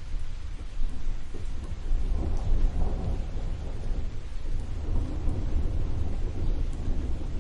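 Thunderstorm: rolling thunder rumbling over steady rain, swelling twice, about two seconds in and again past the middle.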